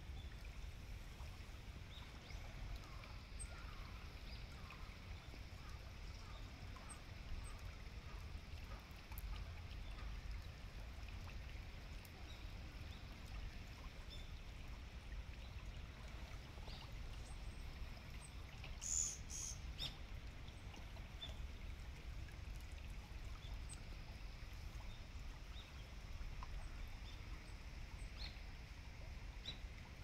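Faint, short, high bird chirps scattered over a steady low rumble of background noise, with a louder burst of sharp high notes about two-thirds of the way through.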